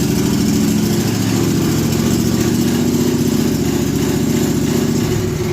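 Briggs & Stratton Vanguard 23 horsepower V-twin engine of a garden tractor running steadily and loud. Its note shifts and eases off slightly near the end.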